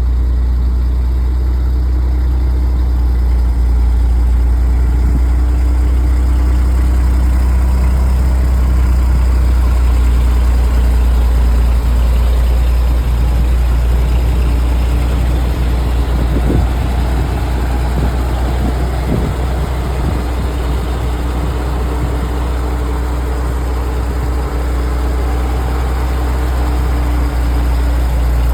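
1948 Dodge fire truck's engine idling steadily, a low even drone.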